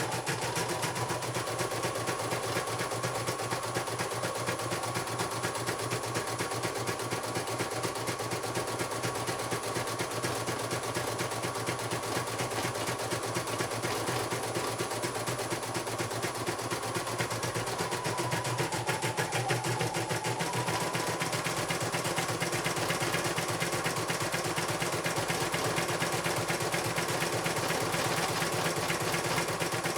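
Computerized embroidery machine stitching: a fast, even run of needle strokes over a steady motor whine. The whine dips in pitch briefly about two-thirds of the way through.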